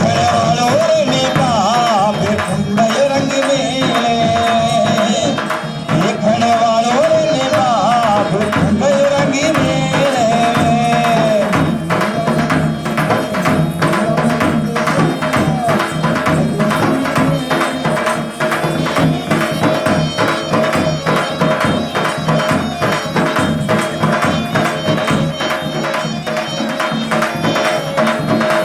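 Live Rajasthani Kalbelia folk music: a singer's wavering melody over hand drums and jingling percussion, and after about twelve seconds the drumming turns fast and dense under a held tone.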